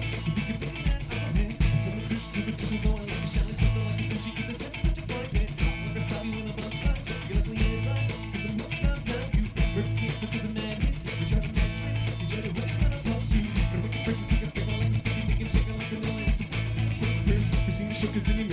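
Live rock band playing an instrumental stretch with no singing: electric guitars, bass guitar and a drum kit keeping a steady beat.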